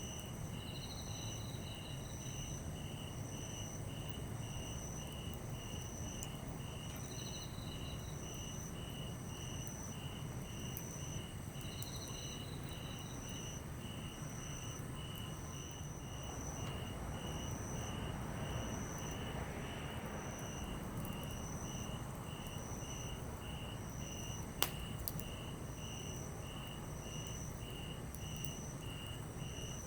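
Crickets chirping steadily, one at about three chirps a second and another higher and slower, over the low crackle and hiss of a small wood campfire. A single sharp pop comes from the fire about two-thirds of the way through.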